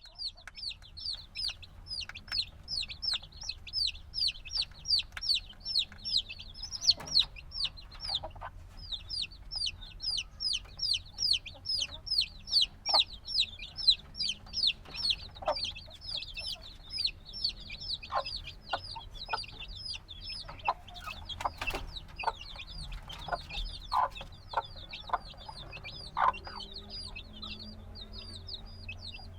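Newly hatched baby chicks a few days old, peeping nonstop. The short, high, falling peeps overlap several a second, and a few sharp clicks come about three-quarters of the way in.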